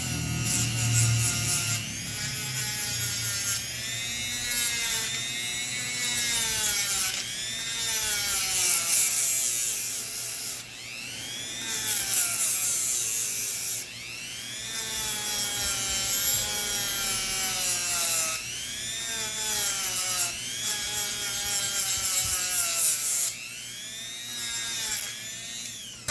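Power tool sharpening a cheap steel dive knife, its motor whine arching up and down in pitch again and again over a gritty, hissing grind; it stops at the very end.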